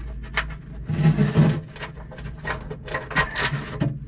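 Handling noise from small metal parts being worked by hand in a cramped space: scattered clicks and knocks, with a louder scraping rub about a second in.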